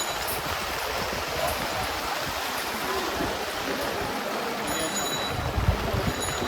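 Steady rushing and splashing of floodwater in a flooded street, with a low thump about five and a half seconds in.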